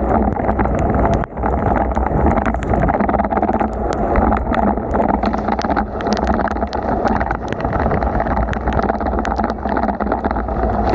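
Wind rush and wet-road noise from riding a bicycle in heavy rain, with many sharp taps scattered throughout.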